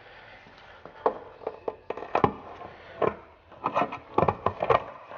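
Irregular knocks and clatter as the lid of a Humvee air filter housing is worked loose by hand. The knocks start about a second in and come thicker toward the end.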